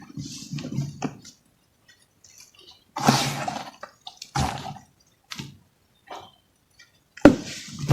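Clumps of crumbly material breaking apart in scattered crunchy bursts with short pauses. The loudest crumble comes about three seconds in, and a sharp crunch near the end.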